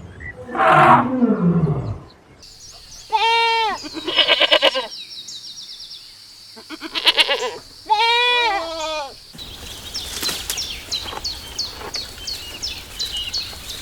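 Goat bleating: two wavering bleats a few seconds apart, after a shorter falling call near the start. From about nine seconds in, the background changes to rapid repeated high chirps.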